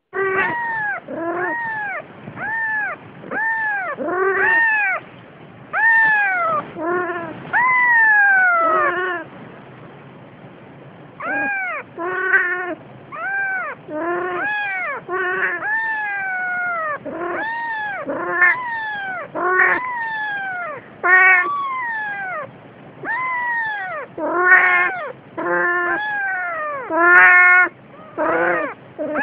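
A cat meowing over and over, roughly one meow a second, each call rising and then falling in pitch, with a short pause about ten seconds in.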